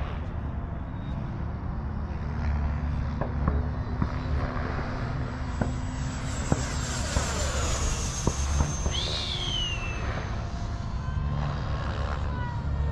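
Electric ducted fan of a 6S-powered RC F-16 jet whining as it flies by, its pitch falling as it passes about nine seconds in. Steady low rumble of wind on the microphone underneath.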